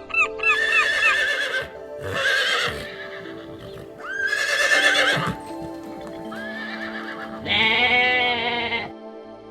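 A horse-like equine whinnying three times, a couple of seconds apart, the last call long and quavering, over steady soft background music. A goose's repeated honks end in the first second or so.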